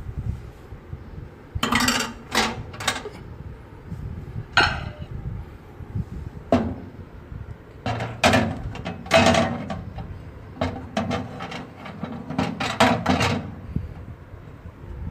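Irregular knocks, clunks and rattles of a microwave oven being handled, in several clusters, the busiest run coming about halfway through.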